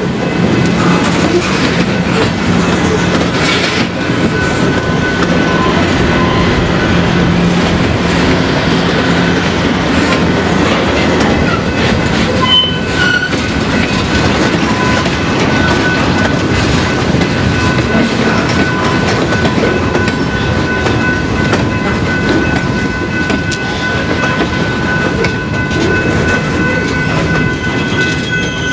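A mixed freight train (boxcars, tank cars and a gondola) rolling past close by: a steady rumble of steel wheels on rail with clicks over the rail joints. A thin, steady wheel squeal joins in from about halfway through.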